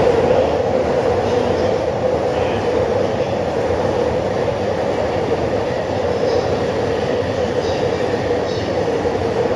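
Electric commuter train running steadily on the rails: an even rumble with a constant mid-pitched hum and no breaks.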